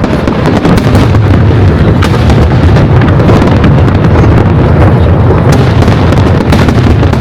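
Aerial fireworks going off in quick succession: a continuous deep rumble of booms, with many sharp pops and crackles scattered through it.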